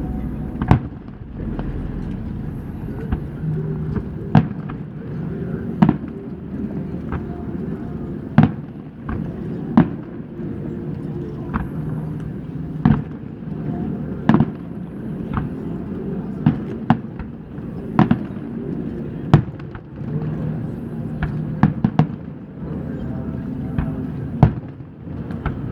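Aerial fireworks shells bursting in a long series of sharp bangs, about one every second or two, some louder than others, over a steady low background din.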